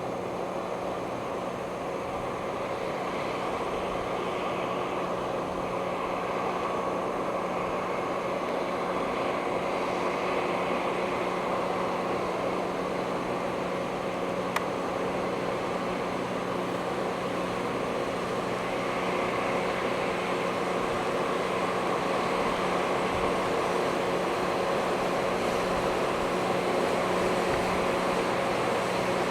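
Rail grinder at work: a steady engine drone under a rushing grinding hiss that grows slowly louder, with one sharp tick about halfway through.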